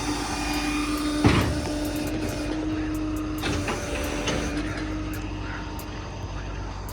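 Tow truck machinery running with a steady hum while loading a car, with a sharp clunk about a second in and a few lighter clicks later.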